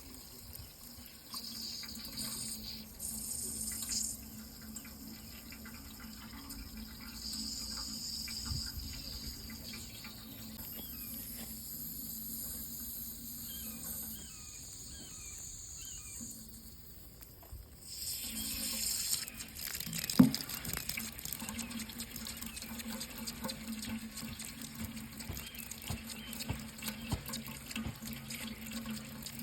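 Water running from a tap into a sink, a steady splashing hiss. The sound dips for a few seconds before swelling back about 18 seconds in, and a single sharp knock follows soon after.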